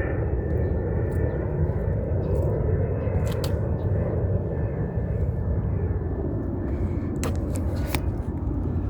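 Steady low outdoor rumble, with a few sharp clicks about three seconds in and again near the end.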